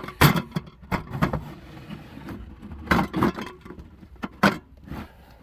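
Irregular knocks and clatters from a cooler full of aluminium cans being handled, the cans knocking against each other and the cooler.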